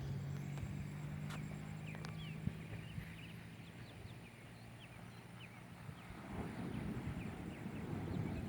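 Faint outdoor ambience: scattered short bird chirps over a low steady hum that fades after about four seconds, then a low rustling that builds from about six seconds in.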